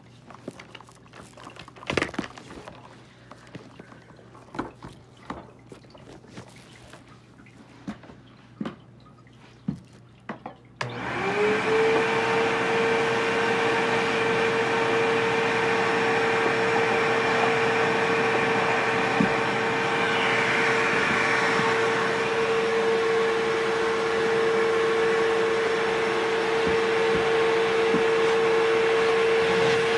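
Scattered clicks and knocks of handling, then about eleven seconds in a Bissell CleanView upright vacuum switches on. Its motor spins up with a short rising whine and settles into a steady whine over rushing air.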